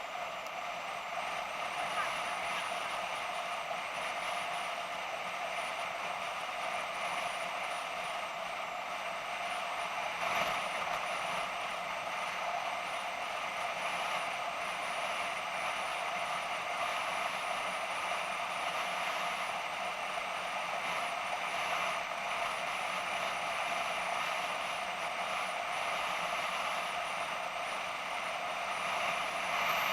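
BMW F650GS motorcycle under way at a steady speed: engine and wind noise picked up by an action camera, thin and muffled, with a faint high whine wavering over it.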